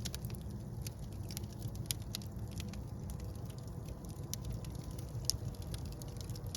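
Wood fire burning in a fireplace: a low steady rumble of the flames with scattered sharp crackles and pops, two a little louder about two and five seconds in.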